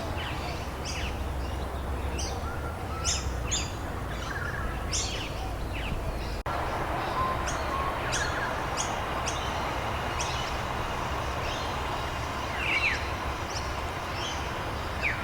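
Small birds chirping and calling in short, quick notes over a steady hiss of falling rain. There is a split-second dropout about six seconds in.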